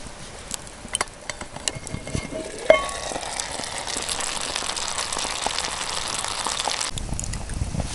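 Food sizzling in a hot frying pan over a campfire: a sharp metal clink about a third of the way in, then a steady hiss of frying that cuts off about a second before the end, with small clicks throughout.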